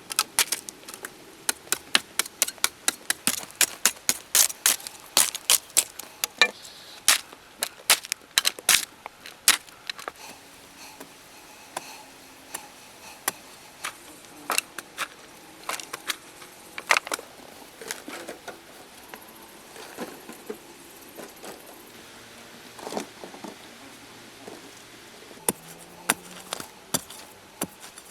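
A long series of sharp knocks and taps, like tool blows on wood: quick and regular for the first ten seconds or so, then sparser and uneven with short pauses.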